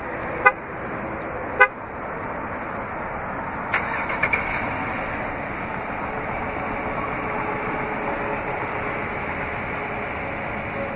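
Remote start of a 2014 Chrysler 300C's 5.7-litre Hemi V8: two short horn chirps, then about four seconds in the engine cranks and catches and settles into a steady idle.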